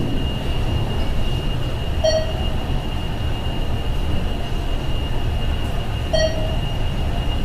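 Thyssenkrupp Synergy elevator car travelling, a steady low rumble from the ride with a thin steady high whine. Two short chimes sound, about two seconds in and again four seconds later.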